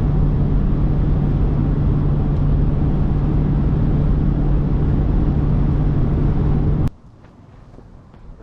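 Loud, steady vehicle drone with a constant low hum, cutting off abruptly about seven seconds in and leaving quiet with a few faint clicks.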